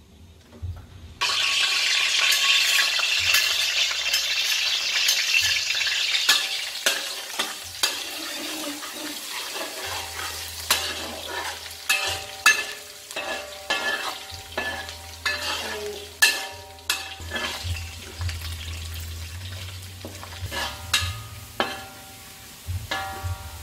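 Minced aromatics frying in hot oil in a wok: a loud sizzle starts suddenly about a second in and gradually eases off. From about seven seconds on, a metal spatula stirs and scrapes against the wok with repeated sharp clicks over the sizzle.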